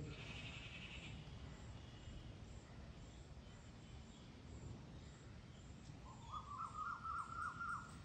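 Birds calling outdoors: a brief high trill in the first second, then a quick run of warbling notes during the last two seconds, the loudest sound.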